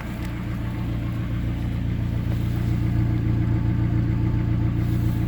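Chrysler 2.4-litre four-cylinder petrol engine in a GAZelle 3302 van idling steadily, getting a little louder about a second in. It runs smoothly and quietly, without stumbling, at 260,000 km.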